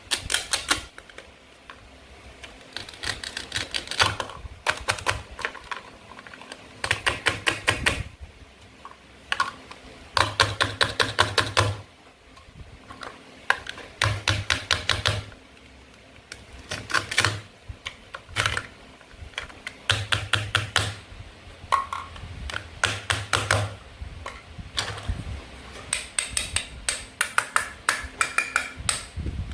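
Toy knife cutting through pieces of toy fruit and vegetables: repeated bursts of rapid clicking, each about a second long, one every second or two.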